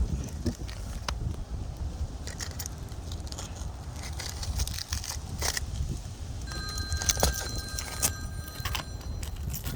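Roofing tools clinking and scraping at asphalt shingles in short, scattered strokes over a steady low rumble. From about six and a half seconds in, several steady high tones sound together for about two and a half seconds.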